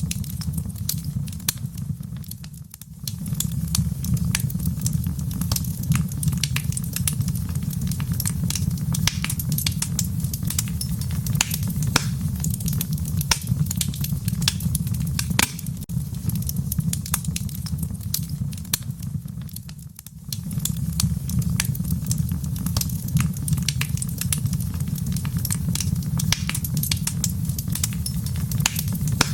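Wood fire crackling in a fireplace: a steady low rumble of flames with many sharp, irregular pops and crackles. The sound dips briefly twice, about three seconds in and again near twenty seconds.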